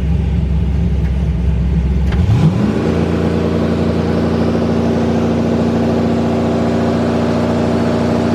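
Twin-turbo Camaro engine running low, then about two seconds in revving up quickly and holding steady at a higher rpm.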